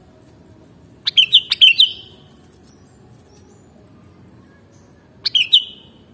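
Sooty-headed bulbul (kutilang) singing: two short phrases of a few quick notes, the second about four seconds after the first.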